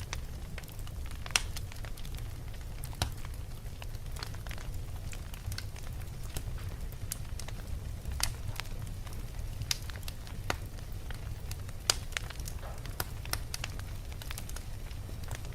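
Wood fire burning in a fireplace: irregular crackles and sharp pops over a steady low rumble of the flames, with a few louder snaps.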